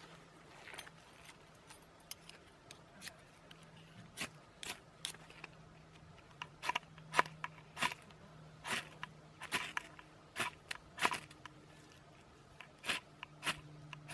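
A knife shaving wood or birch bark: a series of irregular, short, sharp scraping strokes, sparse at first and coming more often after about six seconds, over a faint steady low hum.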